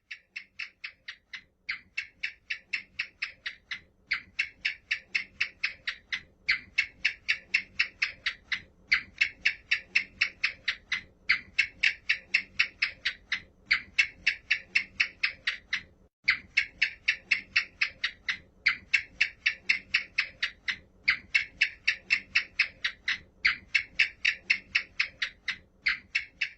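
An animal giving rapid series of short, evenly spaced calls, about four a second, in runs of a couple of seconds separated by brief pauses.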